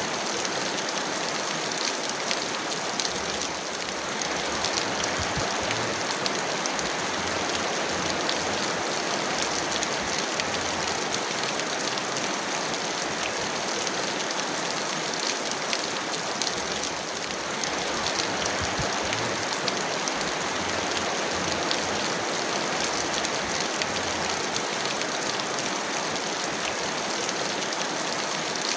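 Heavy rain falling steadily, a dense even hiss of water with many small drop ticks on a hard surface.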